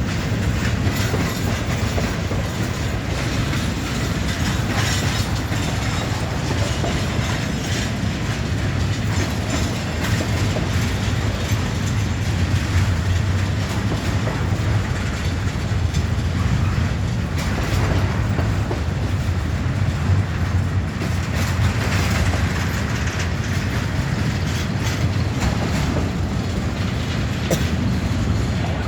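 Freight train cars rolling past, wheels clicking over the rail joints over a steady low rumble.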